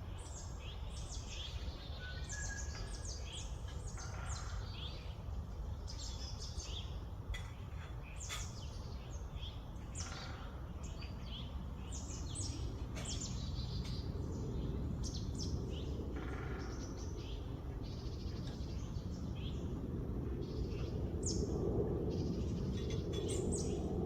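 Several small birds chirping, with many short, high, quick calls overlapping one another, over a steady low rumble of background noise that grows louder in the second half.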